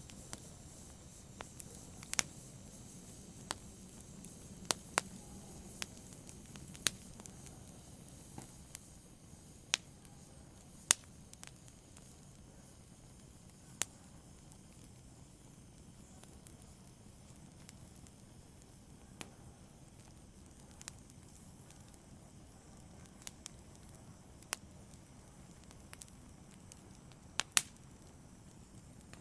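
Wood fire in a fireplace crackling: irregular sharp pops every few seconds over a soft, low, steady hiss.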